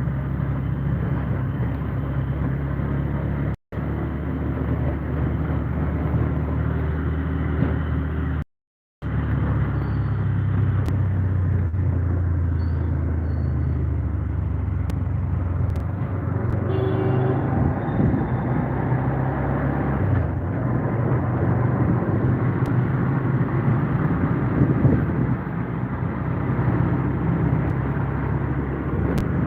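A motor vehicle's engine running with road noise, as heard while riding. The sound drops out briefly twice in the first ten seconds.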